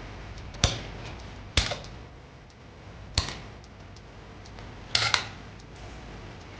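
Five sharp knocks at uneven intervals, the last two close together, over a steady low background hum.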